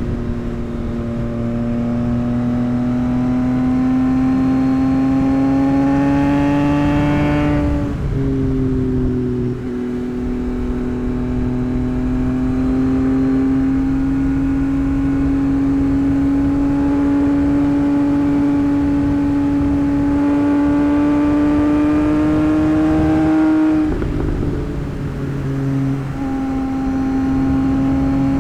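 2024 Yamaha MT-09's 890 cc inline-three, running an aftermarket tune, pulling through the gears under steady throttle. The engine note climbs slowly, drops at a gear change about eight seconds in, climbs again for most of the rest, and drops once more near the end.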